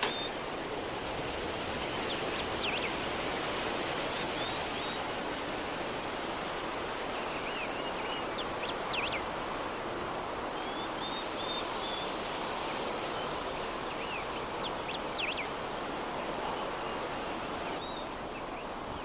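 Soft, steady breeze, an even rushing hiss, with small birds chirping in short bursts of quick, high notes every few seconds.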